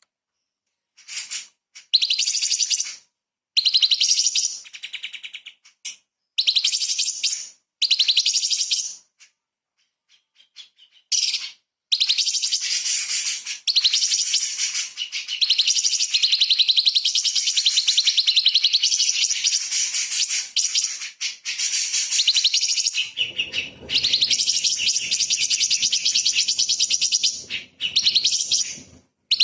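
Orange-bellied leafbird (cucak cungkok) singing fast, sharp, high-pitched chattering phrases. At first they come in short bursts with pauses, then run on almost without a break for most of the rest.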